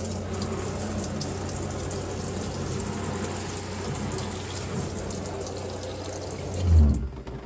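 Camper shower head spraying water steadily, with the electric fresh-water pump humming underneath. Near the end there is a low thump and the water and hum cut off.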